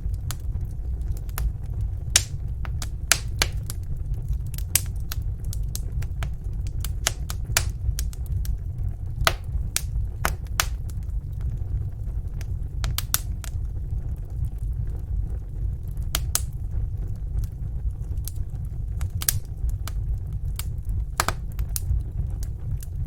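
Wood fire in a fireplace crackling: a steady low rumble of the flames with irregular sharp pops and snaps, a few louder ones.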